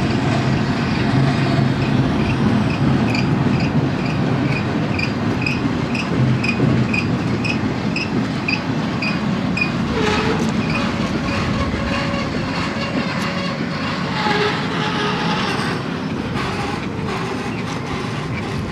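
BNSF double-stack intermodal well cars rolling past with a steady rumble of steel wheels on rail. A high squeak repeats about twice a second through the first half, and short wheel squeals come in around the middle and later.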